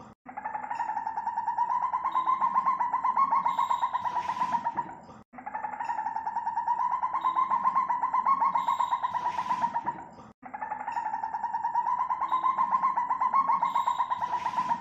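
Civet call: a rapid pulsing trill held at a steady pitch, about five seconds long. The same recording repeats three times, with brief silent cuts between repeats.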